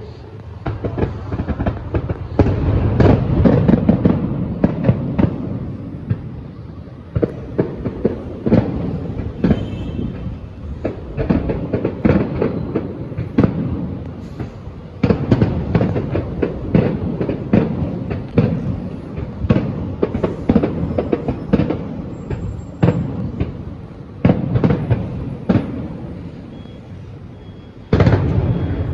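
Aerial fireworks going off in quick succession: a dense run of sharp bangs and crackles over a low rumble. The bursts come in heavier volleys now and then, with a loud one near the end.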